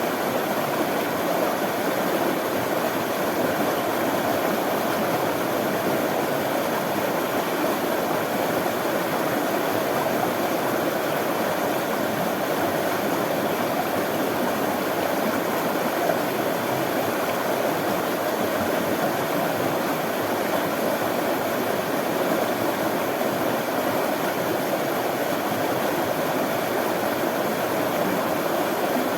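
Running water flowing steadily, an even rushing sound with no breaks or changes.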